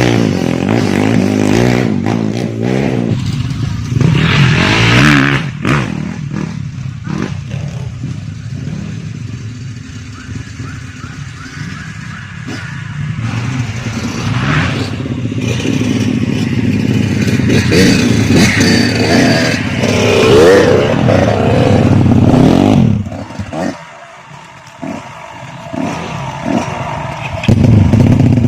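Grasstrack motorcycle engine running and revving as it is ridden on the circuit, its pitch rising and falling with the throttle. The engine sound drops away about 23 seconds in and comes back loud near the end.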